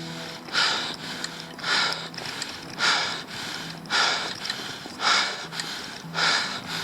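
A cyclist breathing hard and rhythmically, about one loud breath a second, from the effort of a steep uphill climb.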